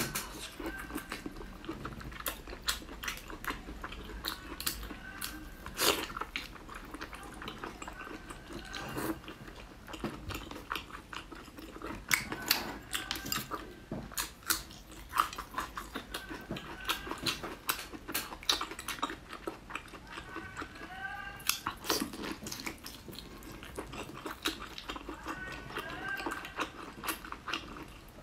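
Close-miked chewing and biting of braised lamb intestines: frequent wet lip smacks and mouth clicks, with short squeaky sucking sounds now and then.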